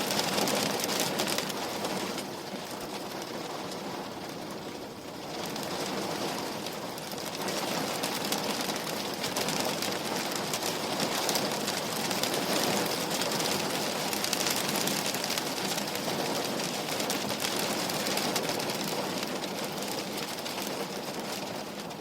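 Rain falling steadily against window glass, a dense hiss of drops, easing off for a few seconds shortly after the start before picking up again.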